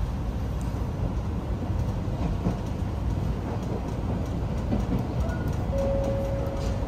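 Electric commuter train running along the track, heard from on board: a steady low rumble of wheels and motors. Near the end, a brief steady tone sounds over it.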